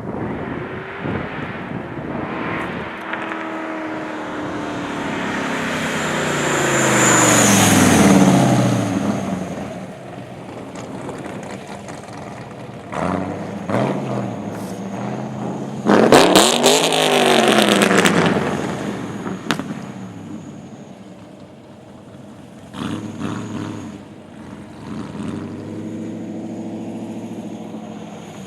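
2005 Pontiac GTO's 6.0-litre LS2 V8, fitted with a VRX5 cam, Kooks headers and muffler deletes, accelerating hard with its pitch climbing to a loud peak and then dropping away. A second sharp, loud burst of revs comes about halfway through, and the engine runs at a steadier note near the end.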